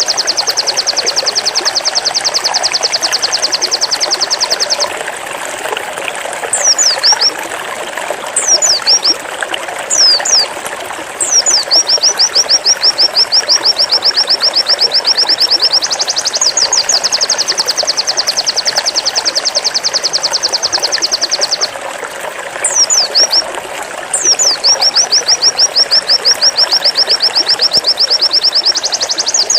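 A white-eye (pleci) singing its 'zipper' song: long, fast trills of rapidly repeated high notes lasting several seconds each, broken twice by a few short, high descending whistles before the trill starts again.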